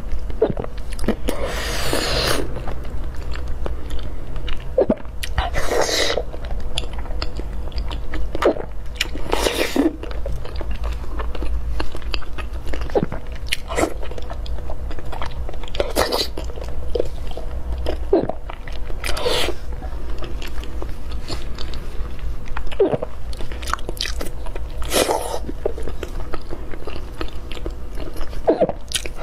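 Close-miked eating sounds: a person chewing and biting, with a handful of longer, louder wet bursts every few seconds.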